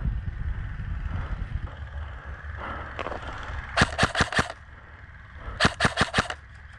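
Airsoft electric gun (AEG) firing two short full-auto bursts, each a rapid string of about half a dozen sharp cracks, the first about four seconds in and the second a second and a half later. A low rumble of wind or handling noise comes before them.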